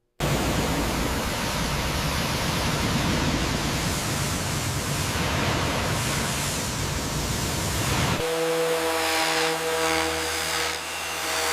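A loud, steady hiss that starts suddenly, giving way about eight seconds in to a steady machine hum with several held tones under continuing hiss.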